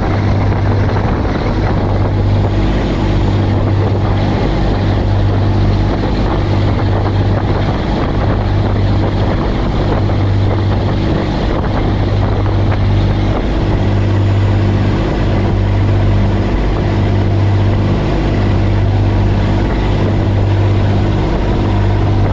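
Passenger ferry's engine running steadily under way, a loud low drone that swells and fades about every second and a half, over a steady rush of wind and water.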